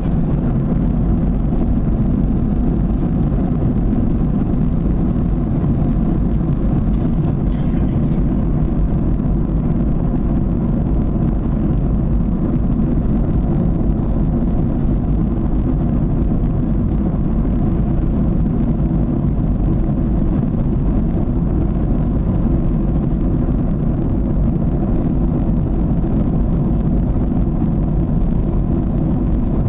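Boeing 737 airliner in flight: a steady low rumble of engines and airflow that holds level throughout.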